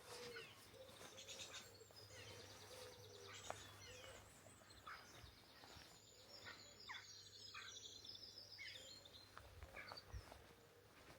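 Faint songbirds singing: several high rapid trills and chirps overlapping, with a few quick falling notes, over a low steady hum.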